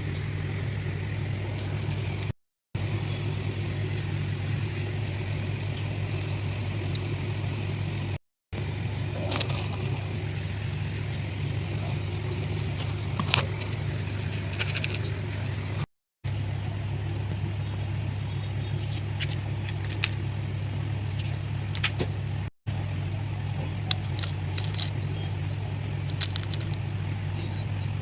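Chalk crust being crumbled into powder: scattered small crackles and crunches over a steady low hum. The sound cuts out briefly four times.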